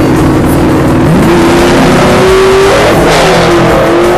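Racing engines accelerating hard at full throttle, with a second engine climbing in pitch about a second in, then a pass-by with the pitch dropping about three seconds in.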